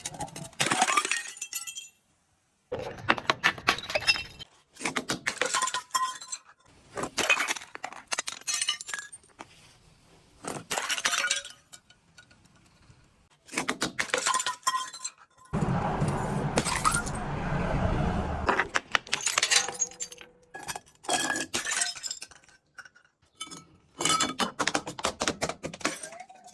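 Glass bottles breaking and being crushed: repeated bursts of cracking, crunching and clinking glass, each lasting about a second, with short pauses between. Around the middle comes a longer, deeper crushing stretch of about three seconds.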